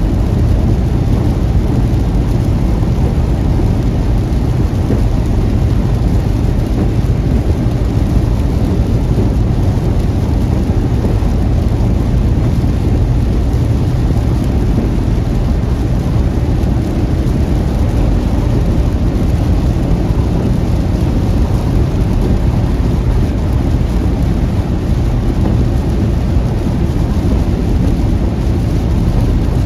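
A car driving through heavy rain: a steady low rumble of road and engine noise with the hiss of rain, unchanging throughout, with no distinct thunderclap.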